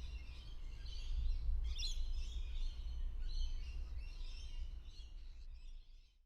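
Birds chirping outside a window, faint and scattered, over a steady low background rumble. The sound cuts off abruptly near the end.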